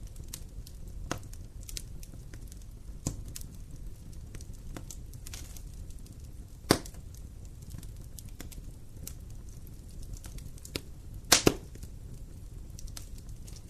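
Wood fire burning, with a low steady rumble and scattered sharp crackles and pops, the loudest pops about seven seconds in and a quick pair near the end.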